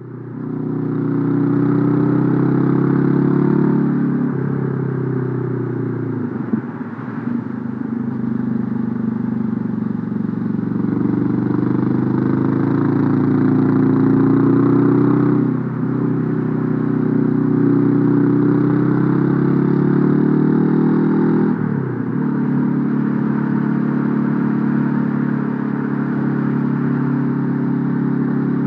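Honda CB500F parallel-twin engine pulling under acceleration while riding, the note rising through each gear and dropping back at four gear changes, with wind rushing past.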